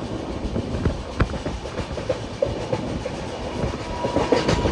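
Passenger train running through a station at speed, heard from a carriage window: a steady rumble of the coaches with irregular clicks of the wheels over rail joints, and a faint steady high tone near the end.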